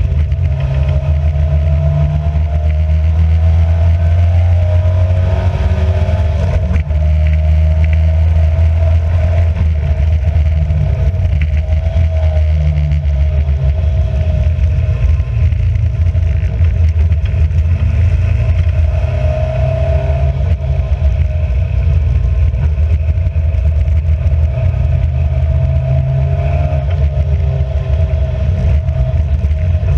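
Racing car engine running continuously under load, its pitch drifting up and down gently with the throttle.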